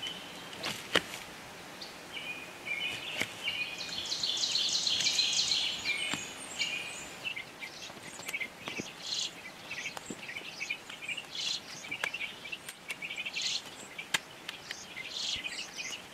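Small birds chirping and calling on and off, with a dense run of chattering calls about four to six seconds in. A few sharp clicks sound among them, the loudest about a second in.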